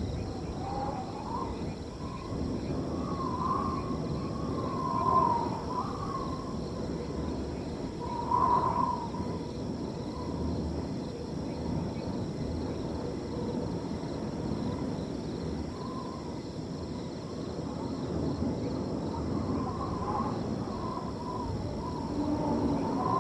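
Wind blowing across a field, a steady rushing with wavering whistle-like tones that swell and fade, loudest around five and eight seconds in. A faint steady high trill of crickets runs underneath.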